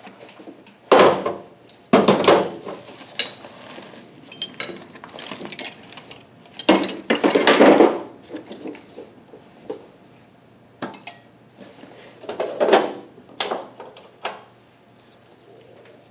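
Metal hand tools and sockets clinking and clattering as they are picked up, set down and rummaged through, with a few louder clatters and lighter clicks in between.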